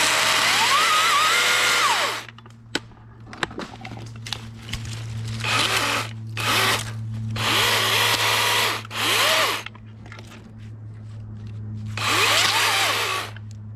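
Dewalt 60V top-handle battery chainsaw run in about six short bursts. Each burst opens with a whine climbing as the electric motor spins up and closes with a falling whine as it winds down. A steady low hum and a few sharp clicks sit between the bursts.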